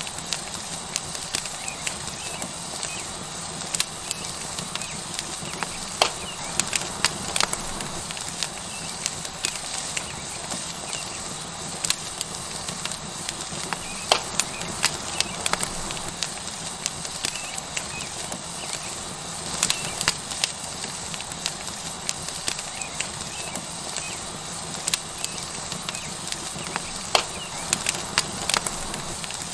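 Tomahawk steak sizzling on a hot rock over a crackling wood fire: a steady hiss with frequent sharp pops and crackles at irregular intervals.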